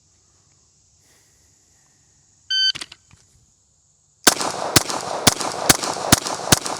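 A Bill drill: a shot timer beeps once, and a little under two seconds later a pistol fires six rapid shots about half a second apart, each shot followed by a ringing echo that trails off.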